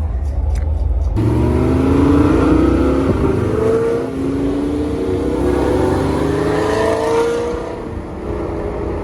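Car engine accelerating hard, its pitch climbing steadily, dropping back about four seconds in as it shifts, then climbing again before easing off near the end.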